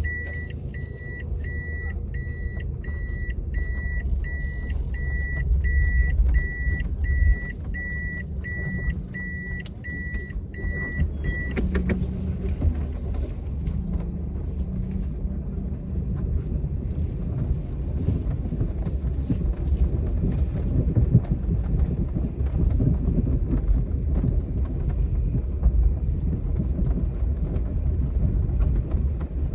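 A car's warning chime beeping evenly, about two beeps a second, over the low rumble of the engine heard from inside the cabin. The beeping stops with a click about eleven seconds in, and the engine rumble carries on.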